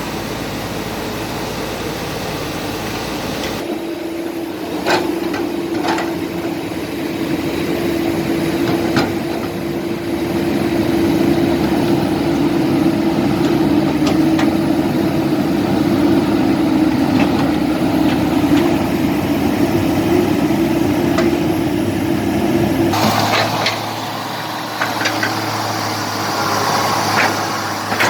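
Diesel engines of heavy earthmoving machinery running under load, with a steady hum and a few sharp metallic clanks. The sound changes abruptly about four seconds in and again near the end.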